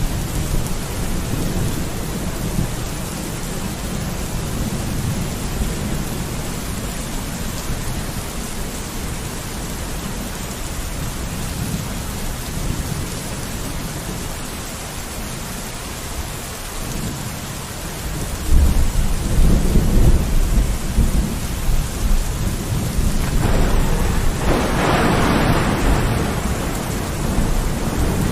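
Steady heavy rain falling on a window, with thunder rumbling under it; a louder, deeper roll of thunder starts about two-thirds of the way in and swells near the end.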